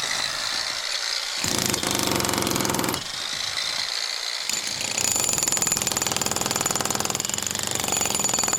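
Demolition hammer breaking into the house's structure: rapid, even hammering that eases off briefly twice, then runs steadily from about halfway, with a thin high whine over it.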